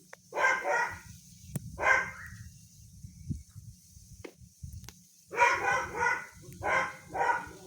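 A dog barking: two barks at the start, one more about two seconds in, then a quicker run of four barks in the second half.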